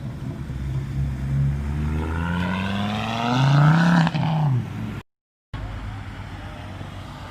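Car engine accelerating hard: the pitch climbs for about two seconds to its loudest about four seconds in, then falls away. The sound drops out completely for half a second about five seconds in.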